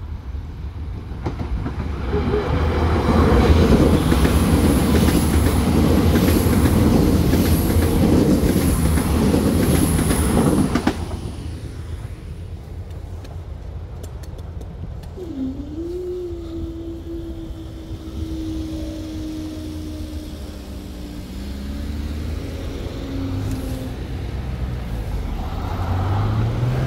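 A train passes over the level crossing, its wheels clattering over the rails with a high wheel squeal, for about nine seconds before the sound cuts off sharply. A few seconds later a steady hum that dips in pitch follows, the crossing barriers being raised. Near the end road cars start passing.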